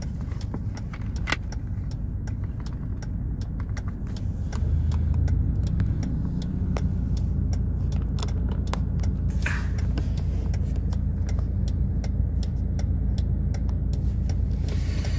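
Car idling while stopped, heard inside the cabin: a steady low engine hum that grows louder about four and a half seconds in, with a fast, regular ticking running over it.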